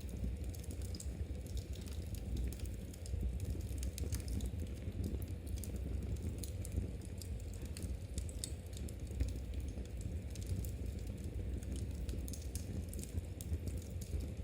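Fireplace fire crackling with irregular sharp clicks and pops over a low steady rumble, mixed with the light clicking of knitting needles.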